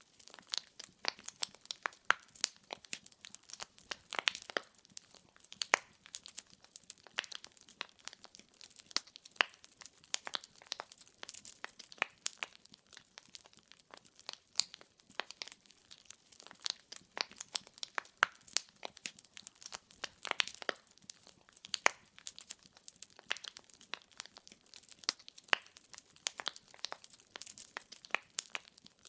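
Wood fire in a fireplace crackling, with many sharp, irregular pops and snaps from burning firewood logs.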